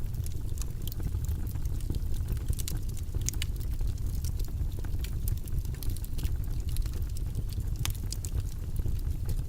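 Steady, deep rushing noise of a background noise track, even throughout, with faint scattered light clicks on top.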